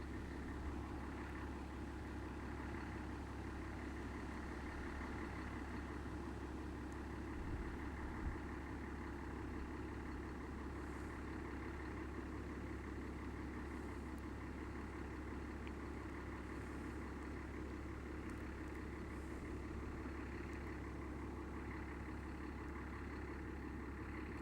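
Steady low hum of a pond aerator's motor running continuously, with a couple of soft low thumps about eight seconds in.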